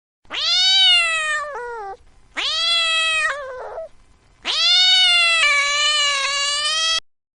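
Domestic cat meowing three times, each call rising and then falling in pitch; the third meow is the longest.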